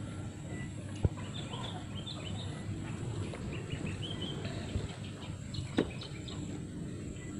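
Birds chirping in short scattered calls over a steady low rumble, with two sharp knocks, one about a second in and a louder one near six seconds.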